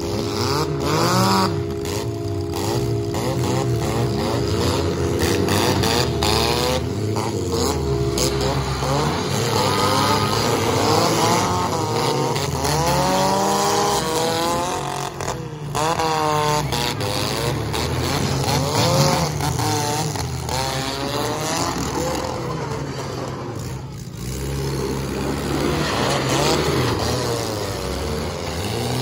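Small-car engines revving on the track, their pitch repeatedly rising and falling as several cars rev at once. A steady droning tone sits under the revving for the first eight seconds or so.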